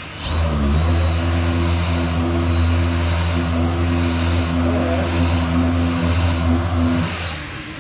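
Power sander starting up, its motor rising in pitch over the first second, then running steadily with a high whine before winding down about seven seconds in.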